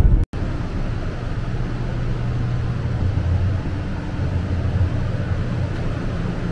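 Steady running rumble of a 500 series Shinkansen train heard inside the vestibule between cars, with a low hum under an even rushing noise. It cuts out for an instant just after the start, then carries on unchanged.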